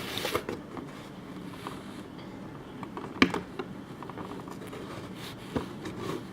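Cardboard Funko Pop box being handled and worked open: light scraping and rustling with scattered small clicks, and one sharp click about three seconds in.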